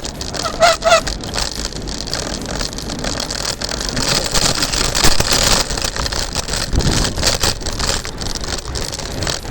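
Electric scooter on the move: wind buffeting the microphone over a steady rush of road and tyre noise, with frequent small knocks and rattles from the ride. A brief high squeak of three quick notes comes about half a second in.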